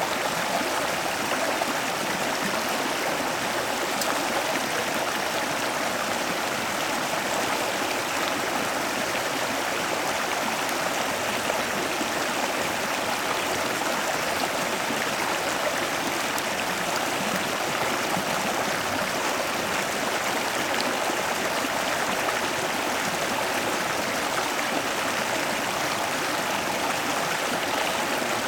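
Steady rushing of running water, unbroken throughout.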